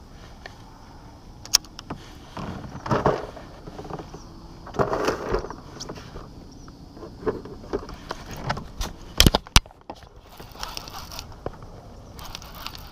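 Irregular scrapes, clicks and knocks of fishing gear being handled aboard a kayak, with a cluster of sharp clicks a little after the middle.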